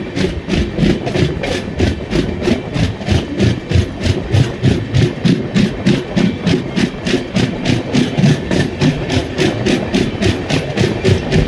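Train running with a steady, even rhythm of about four beats a second over a low rumble.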